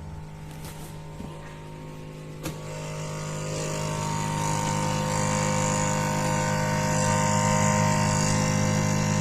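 Samsung double-door refrigerator's freezer fan running noisily: a steady hum with several held tones and a hiss over it, a click about two and a half seconds in, after which the noise grows louder. The noise comes from ice built up around the freezer fan.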